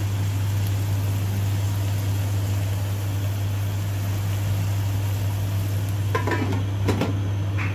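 Prawns frying and sizzling in sauce in a stainless-steel wok, over a steady low hum. Near the end a glass lid is set on the wok, giving a few short clinks.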